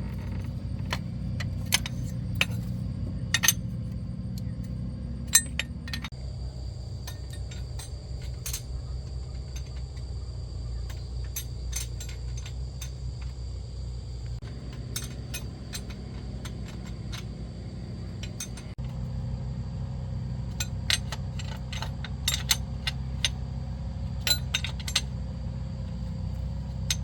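Metal tools and parts clinking and tapping repeatedly in a series of short sharp clicks, as during work on a starter motor, over a steady low machine hum.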